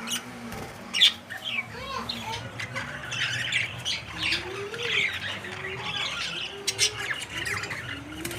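Budgerigars chattering and squawking in a steady stream of short calls, with one sharp knock about a second in.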